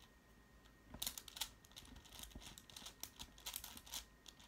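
Plastic clicking and clatter of a 6x6 twisty-puzzle cube being turned by hand. The clicks start about a second in and come in quick, irregular clusters.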